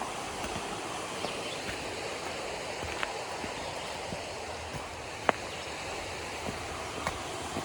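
A river running steadily, with a few sharp clicks over it, the loudest about five seconds in.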